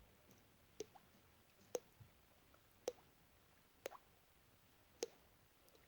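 Mouth imitation of dripping water: five faint plops about a second apart, each a short drop-like pop, one with a quick pitch glide. In the maker's own words, the sound did not come out well this time.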